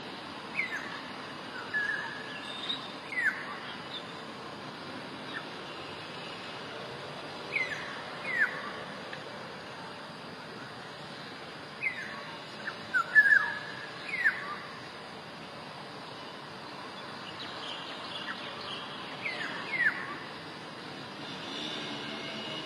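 Black-naped orioles calling: short whistled notes in clusters of two to five, a few seconds apart, over a steady background hiss.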